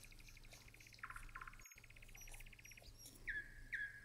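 Faint chirping of a small bird: a rapid high trill, then a run of short falling chirps about two a second near the end, over a low steady hum.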